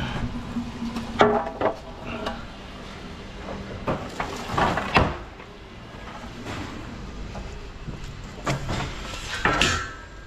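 A series of irregular clunks and knocks over a low steady hum.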